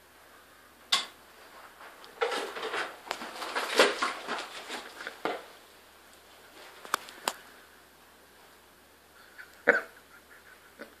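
Scattered clicks and clatter as a pop-up toaster's lever is worked, with a stretch of scraping and rattling in the middle and two sharp clicks in quick succession later; the lever will not stay down.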